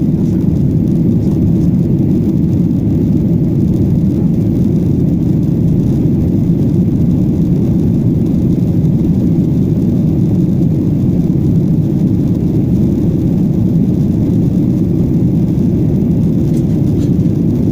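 Jet airliner on its takeoff making a steady low roar that holds an even level throughout, with no rise or fall.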